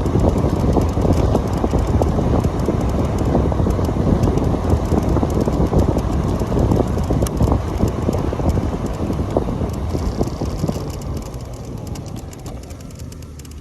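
Wind buffeting the microphone over road rumble while riding the Onyx RCR electric bike, dying down over the last few seconds.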